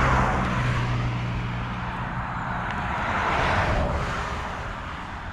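Motorcycle engine running at a steady pitch under a rush of wind and road noise while riding. The rush swells near the start and again about three and a half seconds in, and the engine hum fades after about two seconds.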